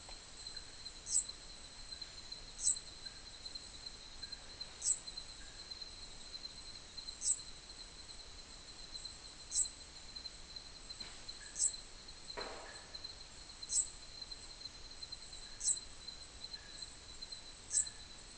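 Night insect chorus: a steady high cricket trill, with a short sharp high chirp about every two seconds. About twelve seconds in comes a single dull knock with a short ring-out, the kind of wood knock put forward as a yowie tree knock.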